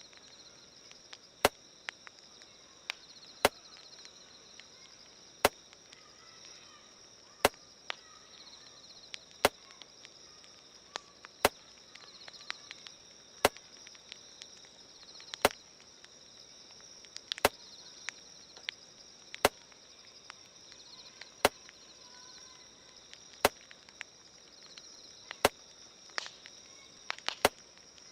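Wood fire crackling with sharp irregular pops, over a steady high insect chirring. A louder sharp click recurs evenly every two seconds: the beat dubbed in as a heartbeat.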